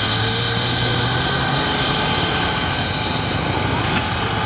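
C57 steam locomotive standing by, giving off a steady hiss of steam with a steady high-pitched tone over it; a low hum underneath fades out about a second and a half in.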